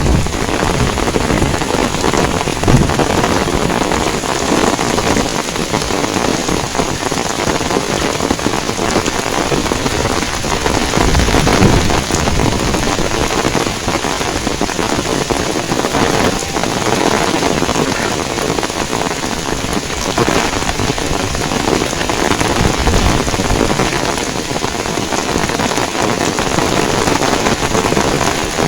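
Heavy rain pouring steadily: a dense, even hiss of drops hitting the ground, loud throughout with small swells.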